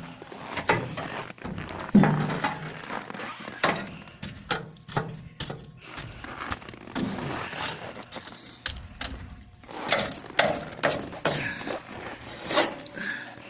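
Irregular knocks and clunks of split firewood being handled and loaded into an outdoor wood furnace's firebox.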